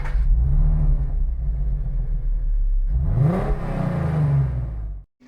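Lotus Elise sports car engine running, revved once about three seconds in, with the pitch climbing and then falling back. The sound stops suddenly just before five seconds.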